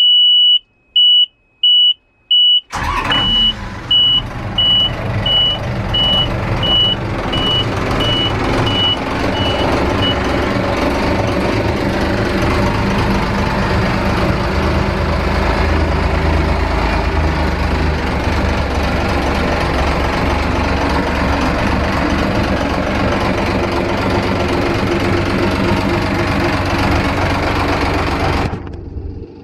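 A 4.9-ton fishing boat's inboard diesel engine being started. An instrument-panel warning buzzer beeps in quick pulses, then the engine catches about three seconds in with a few uneven surges and settles into loud, steady running. The beeping carries on for several seconds after the engine fires and then stops. The engine sound drops off sharply shortly before the end.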